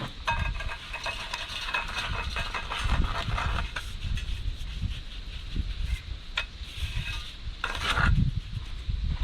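Wet concrete being mixed and worked with a hand tool: irregular scraping and stirring strokes with dull thuds.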